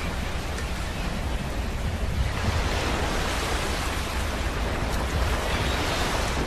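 Sea surf washing in, a steady rush that swells up twice.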